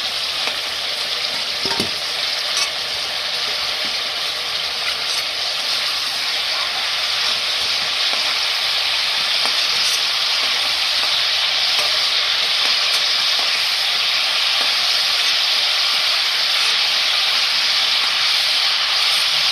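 Chicken pieces frying in hot oil in a pan, a steady sizzle with a few faint clicks, the meat browned and nearly done.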